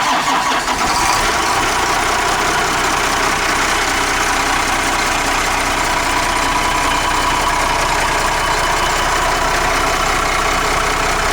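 Cummins diesel engine of a 1997 Blue Bird TC2000 RE rear-engine school bus idling steadily, just after starting up.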